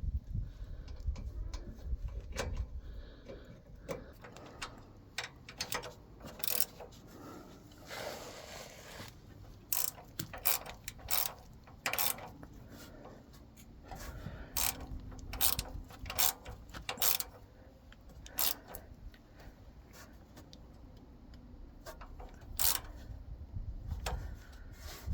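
Hand tools and metal engine parts clicking and clinking irregularly while a VW air-cooled engine's rocker shaft assembly is fitted to the cylinder head, with a short scraping rush about eight seconds in.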